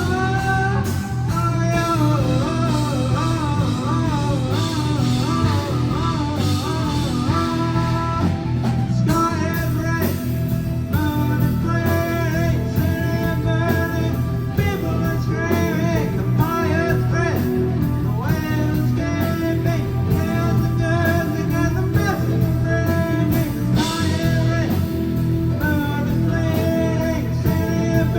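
Live rock band playing a song: guitar over bass and drums, with a voice singing.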